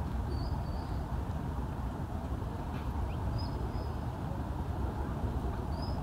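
A steady low outdoor rumble with a small bird's short high whistled calls three times, spaced a few seconds apart.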